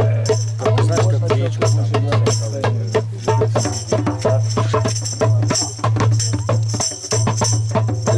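Live folk percussion: a fast run of drum beats mixed with jingling, over a steady low drone.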